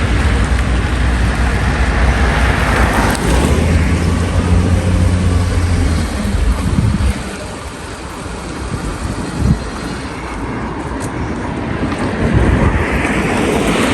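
A motor vehicle driving, with a steady low engine drone, road noise and wind on the microphone. About halfway through, the engine drone drops away and the sound gets quieter.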